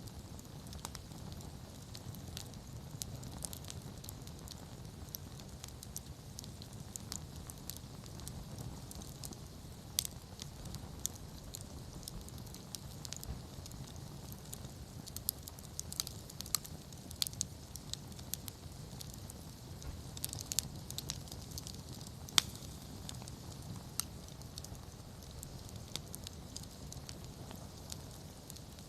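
Wood campfire burning: a steady low rush of flame under frequent sharp crackles and pops, with a few louder pops, one about ten seconds in and the loudest about twenty-two seconds in.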